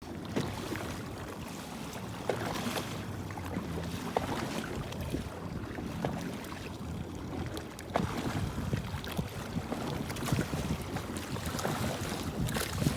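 Personal watercraft engine running low and steady, with water splashing and slapping against the hull and wind on the microphone.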